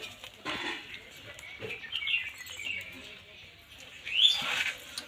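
Small birds chirping in short, repeated calls, the loudest a rising call about four seconds in.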